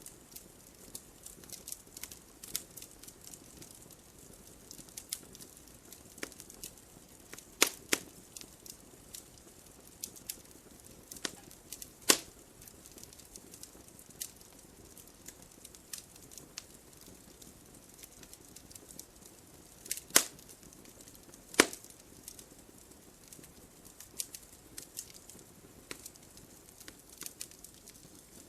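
Wood fire in a fireplace crackling, with irregular small snaps over a soft hiss and a few louder pops, two of them close together about two-thirds of the way through.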